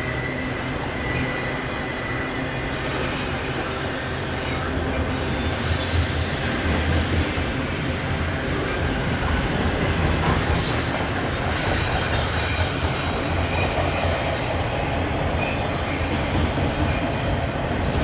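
Norfolk Southern intermodal freight train rolling past: a steady rumble of steel wheels on rail, with brief high wheel squeals about six and eleven seconds in.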